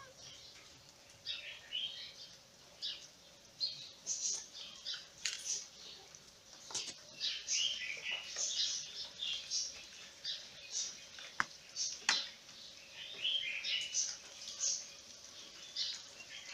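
Small birds chirping over and over in short, high calls, with a faint steady hum underneath and two sharp clicks about two thirds of the way through.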